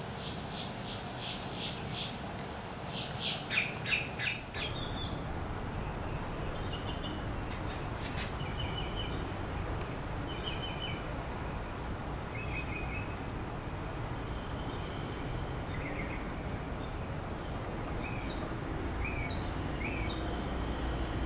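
Backyard birds calling: a run of loud, harsh calls repeated several times, quickening after about three seconds, then scattered short chirps over a steady low background noise.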